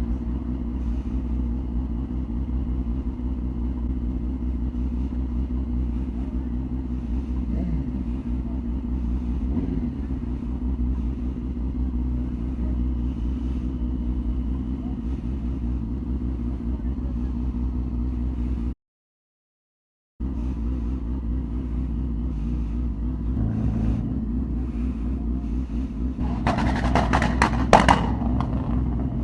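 Yamaha R6 inline-four sport bike engine running steadily on the move, with a few small rises in pitch. It cuts out for about a second midway, and near the end a louder, rougher burst comes in as the bike accelerates.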